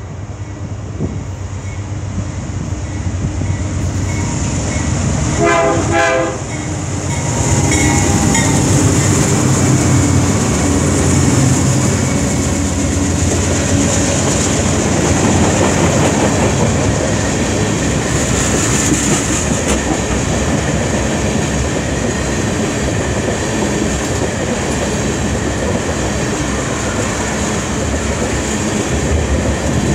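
CN freight train passing close by: the diesel locomotives sound a short horn blast about six seconds in, then rumble past, followed by a long string of tank cars with wheels clacking over the rail joints.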